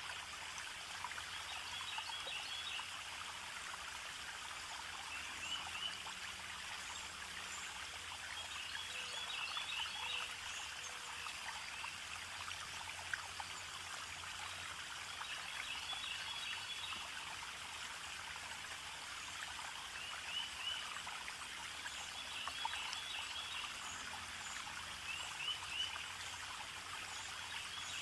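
Steady running water of a small stream trickling, with a bird singing a short chirpy phrase again every few seconds.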